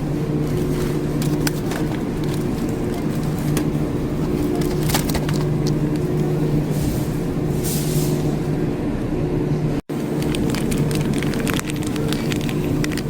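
Steady hum of a car on the road, heard from inside the cabin, with engine drone and tyre noise and a few small clicks. The sound drops out briefly about ten seconds in.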